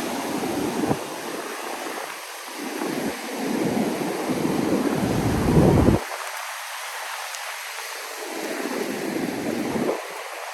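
Ocean surf washing on a sandy beach, with gusts of wind rumbling on the microphone that swell and stop abruptly, about a second in, about six seconds in, and near the end.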